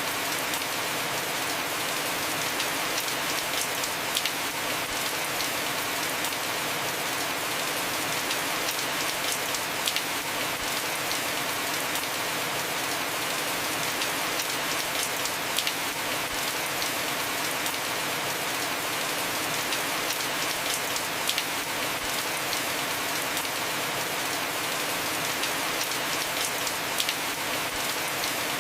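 Heavy rain falling steadily on a house roof, with a sharper single drop-like click standing out every few seconds.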